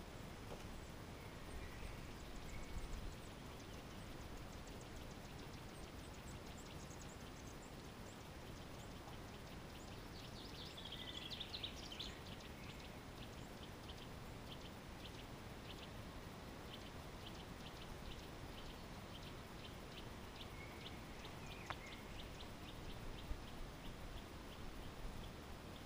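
Faint outdoor ambience of small birds calling, with a quick run of high ticking notes through most of it and a brighter burst of song about halfway.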